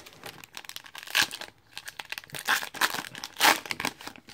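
A foil-wrapped trading-card pack being torn open and its wrapper crinkled: a run of sharp crackles and rips, loudest about a second in and again near the end.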